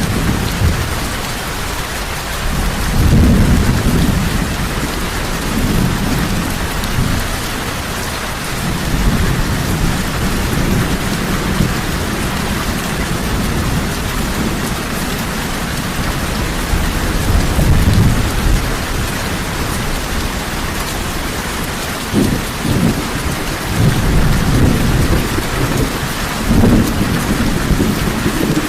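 Heavy rain falling steadily, with low rolls of thunder rumbling again and again beneath it.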